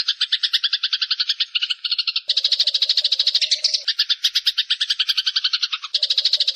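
Eurasian tree sparrow chattering in a fast, unbroken run of chirps, about ten a second, high and loud. The chatter changes and grows fuller about two seconds in and again near the end.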